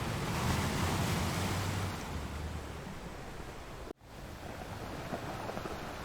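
Ocean surf breaking and washing ashore, with one wave surging in the first two seconds before settling into a steady wash. Just before four seconds in, the sound cuts out for an instant, then resumes.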